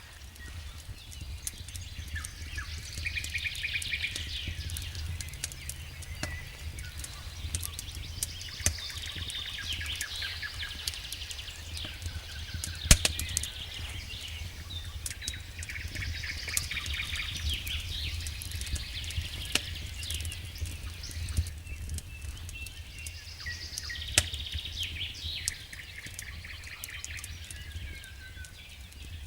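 Wood fire burning in a fireplace: a steady low rumble of flames under frequent small crackles and pops, with a few sharper snaps, the loudest about halfway through and another a little before the end. Patches of higher hissing and chirping come and go over the crackle.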